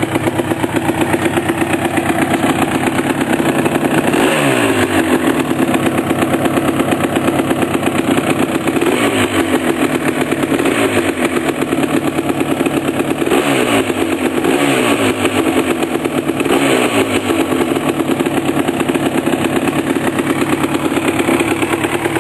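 1988 Suzuki LT250R's two-stroke single-cylinder engine, freshly rebuilt with a new Wiseco piston, running on its first start. It idles and is blipped on the throttle several times, each rev falling back to idle.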